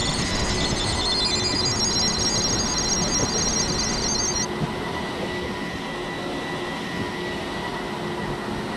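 Steady rumble of a train running near the platform, with a high-pitched trilling ring that stops about four and a half seconds in.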